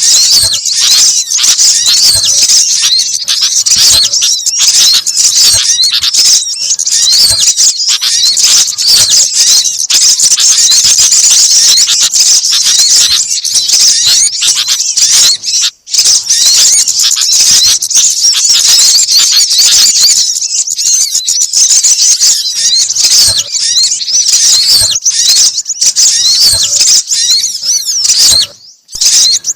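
Bird-lure (pikat) recording: a dense, unbroken chorus of high-pitched small-bird chirps and twitters, several species' calls layered together to draw wild birds in. It cuts out briefly about halfway and again just before the end.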